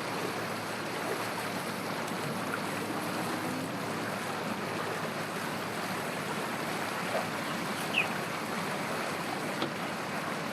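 Steady open-air noise with no clear single source, and a couple of short bird chirps near the end.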